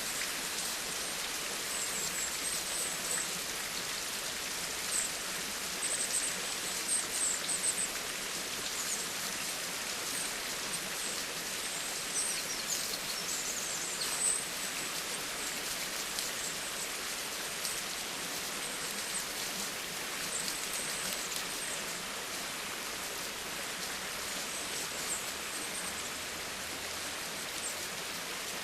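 Steady rain falling, a dense even hiss, with a few sharper high ticks of drops now and then.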